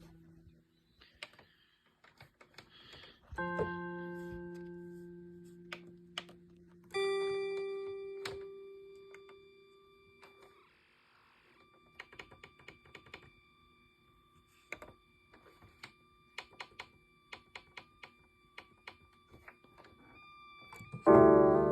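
Yamaha DX7 FM synthesizer playing a voice from the VRC-105 sound cartridge: long held notes that slowly fade, one starting a few seconds in and another about seven seconds in. A run of sharp clicks follows, with a loud burst of several notes near the end.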